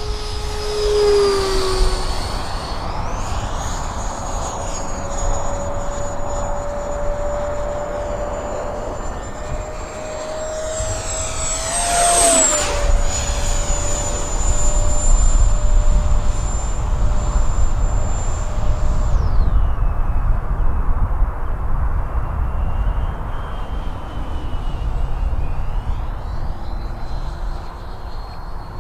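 Electric ducted fan of a Freewing A-4 Skyhawk RC jet, an 80 mm in-runner unit, whining in flight. About twelve seconds in the jet makes a fast pass: the whine rises and then drops sharply in pitch as it goes by, and it fades a few seconds before the end.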